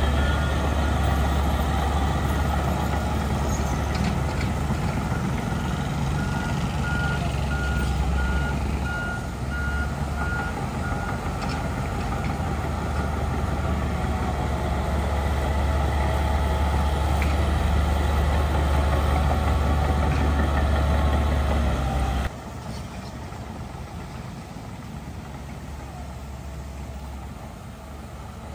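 Heavy diesel earthmoving machinery running under load, with a reversing alarm beeping steadily through the first third. About three-quarters of the way through, the loud engine drone drops off abruptly to a quieter engine sound.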